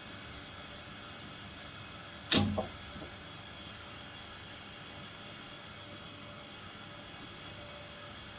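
A single sharp knock about two seconds in, with two or three smaller knocks right after it, over a steady hiss.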